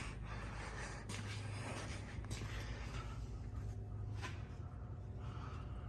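Quiet shop room tone: a steady low hum with a few faint clicks and light handling rustles.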